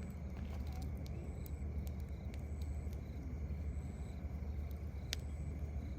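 Campfire wood crackling, with scattered sharp pops, the loudest about five seconds in, over a steady low rumble. Faint, short high-pitched insect chirps come and go.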